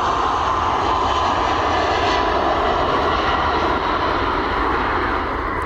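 Airliner's engines passing close by on takeoff or landing: a loud steady rush with a high whine that falls slightly in pitch, easing off near the end.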